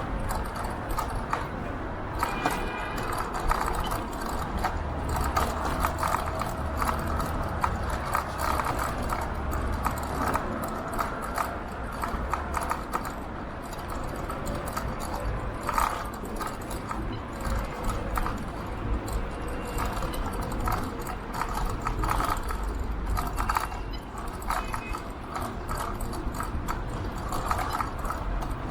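Electric bike in motion: irregular rattling and knocking of its loose parts over the road surface, over a steady rumble of road and wind noise.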